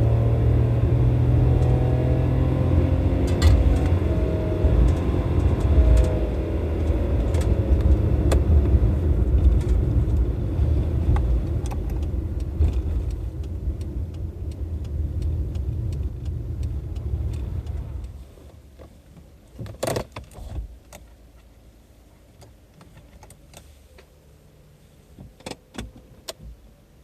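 Non-turbo Suzuki Wagon R's 660 cc three-cylinder engine coming down from high revs, then running steadily and fading until it cuts off about eighteen seconds in. A few sharp clicks follow near the end.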